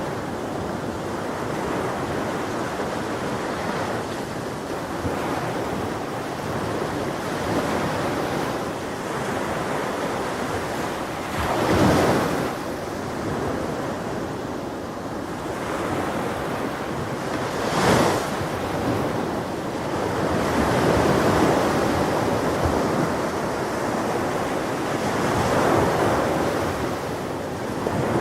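Ocean waves breaking on a shore, a steady wash of surf that swells and falls, with two louder breakers about 12 and 18 seconds in.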